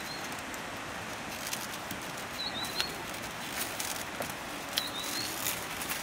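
A bird's short chirping call, repeated three times about every two and a half seconds, over a steady hiss of background noise with a few faint clicks.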